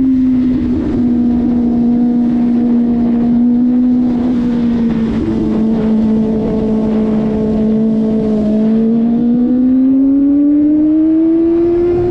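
Kawasaki ZX-25RR's 250 cc inline-four engine running at steady cruising revs, its pitch easing slightly and then rising from about nine seconds in as the throttle opens, over low wind rumble.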